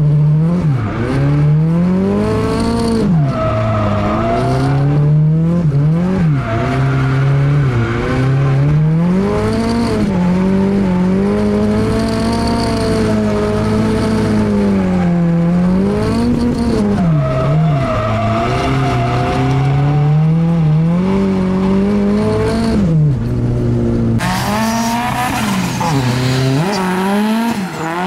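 Honda K24 four-cylinder engine in a drifting Nissan Cefiro, heard from inside the cabin, revving up and down again and again as the throttle is worked through the slides, with tyre squeal. About four seconds from the end the sound switches to the car heard from outside, with more tyre noise.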